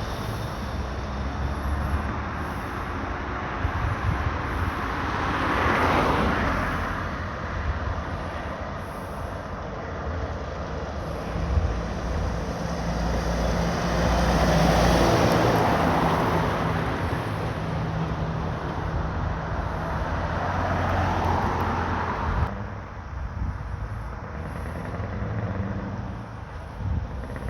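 Heavy trucks driving past one after another, engine and tyre noise swelling and fading with each pass. The loudest passes come about six seconds in and around the middle, and the noise drops off sharply near the end.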